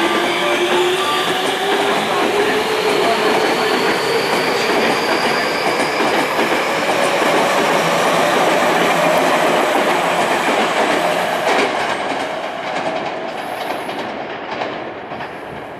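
Electric commuter train departing the platform. Its motors whine, rising in pitch as it speeds up, over the clack of wheels on rail joints. The sound fades over the last few seconds as the last cars pull away.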